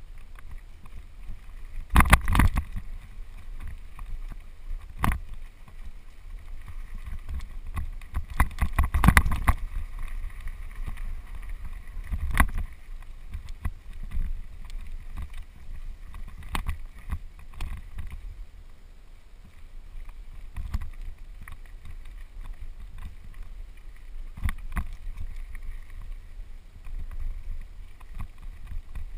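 Mountain bike descending a dirt singletrack: steady wind rumble on the microphone with sharp rattles and knocks as the bike jolts over bumps, loudest about two seconds in and in a quick cluster around nine seconds in.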